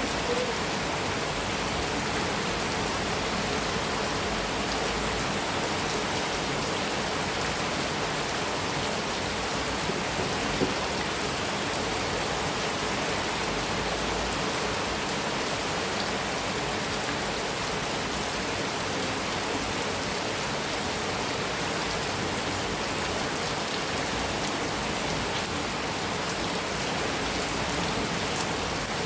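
Heavy rain falling steadily on a metal roof, an even hiss of dense drops, with one sharper tap about ten seconds in.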